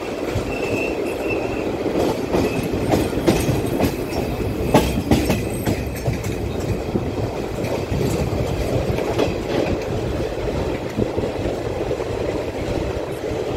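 A passenger train running out of a station, heard from an open coach door. It makes a steady rumble, with its wheels clicking over rail joints and points, louder clatter about three to five seconds in, and a brief high squeal near the start.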